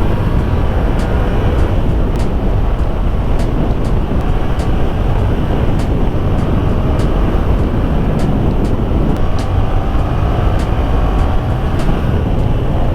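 Motorcycle on the move: heavy wind rush on the microphone over the Yamaha MT-07's parallel-twin engine. The engine note rises slowly near the start and again in the second half as it pulls.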